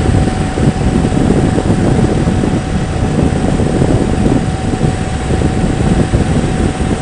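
Steady wind and road noise with engine rumble from a motorcycle cruising at highway speed, heard on the rider's microphone, with a thin steady tone running underneath.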